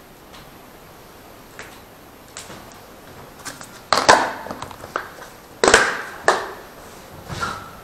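Kitchen handling noises: a few light clicks, then several louder knocks and clatters as things are put down and moved about.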